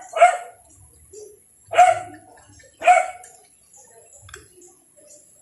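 A dog barking three times in short single barks, about a second apart.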